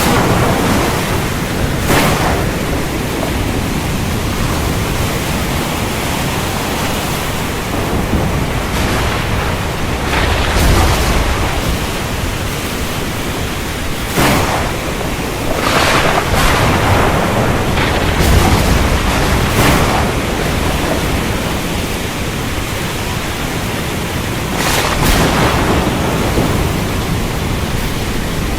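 Thunderstorm with steady heavy rain. Short sharp cracks break through every few seconds, and low thunder rumbles swell twice.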